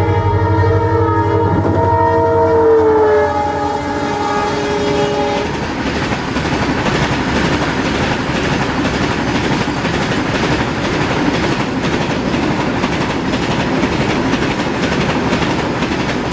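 A passing train: its horn sounds a chord of several tones for about three seconds, dropping slightly in pitch as it fades. Then the wheels clatter steadily over the rail joints as the cars roll by.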